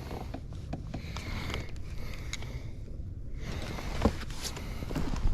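Small clicks and knocks of handling aboard a fishing kayak over a steady low rumble, with one sharper knock about four seconds in.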